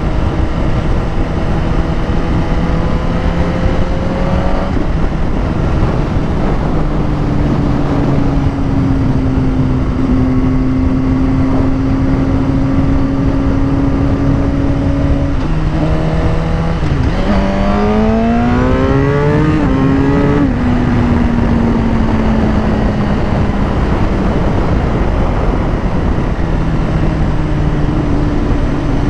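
Suzuki GSX-R motorcycle engine running at steady cruising revs under heavy wind noise. A little past halfway the revs drop, then climb in a quick rising sweep as the bike accelerates, and settle back to a steady note.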